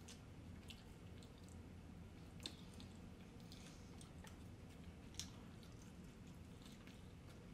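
Faint close-up eating sounds: soft chewing and mouth noises, with a few small clicks as a plastic fork digs into a disposable bowl of rice, the sharpest about two and a half and five seconds in. A low steady room hum lies underneath.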